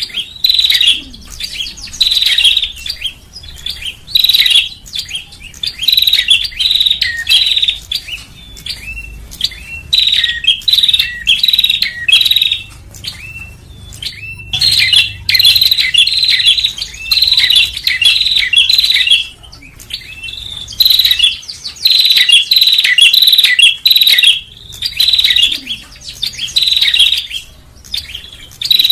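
Prinia (prenjak) calling in loud, rapid chirping phrases a few seconds long, broken by short pauses: a lure-call recording played to draw small birds in.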